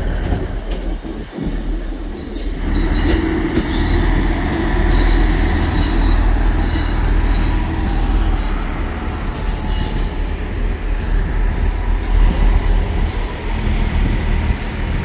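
Diesel passenger train running through the station: a steady heavy rumble with thin high wheel squeal over it.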